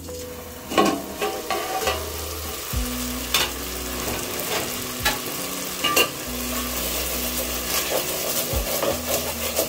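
Onions with garlic and ginger paste sizzling and bubbling in a metal pot while a wooden spoon scrapes and stirs through them, with a few sharp knocks against the pot.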